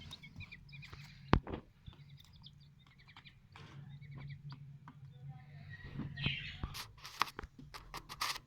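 Small pet birds, chicks and budgerigars, chirping in quick runs of short high notes, with scattered sharp clicks and a loud knock about a second and a half in, over a steady low hum.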